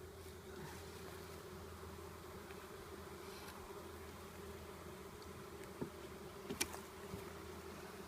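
Honeybees buzzing around an open hive: a steady hum, with a few sharp clicks about three-quarters of the way through.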